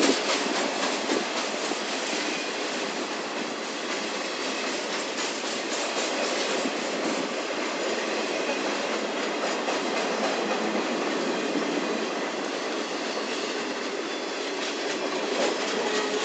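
Intermodal freight cars rolling steadily past: trailer-on-flatcars, then double-stack container cars, with a continuous rumble and rattle and the wheels clicking over the rail joints.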